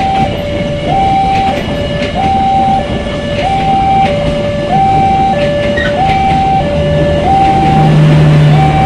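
KA Jayakarta Premium passenger coaches rumbling past at close range, wheels running on the rails. Over it, a two-tone electronic warning alarm alternates steadily between a high and a low note, one cycle about every 1.2 s.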